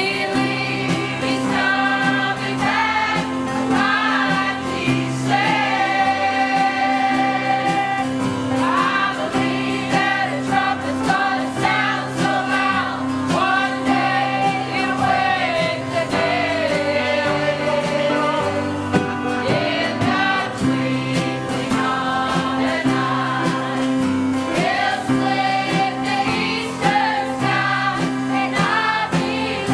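A choir singing a gospel-style hymn with instrumental accompaniment, the melody moving over sustained chords.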